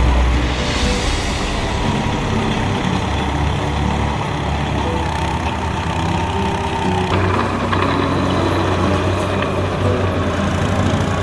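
Tractor engine running steadily under light load.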